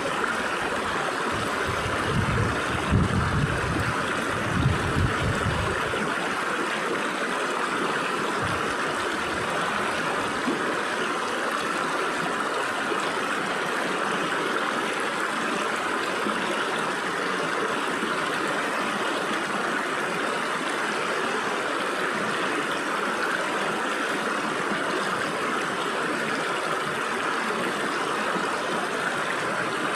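Stream water rushing and splashing through gaps between rocks, a steady even rush. A few low rumbling bumps sound in the first six seconds.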